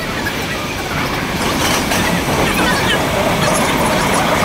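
Train running noise heard from inside a Keikyu commuter car: a steady rumble with wheel noise on the rails, growing louder about a second and a half in.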